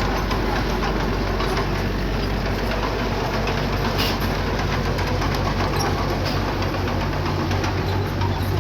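Diesel engine of a piece of earthmoving equipment running steadily at a constant pace, with a few light clicks and knocks over it.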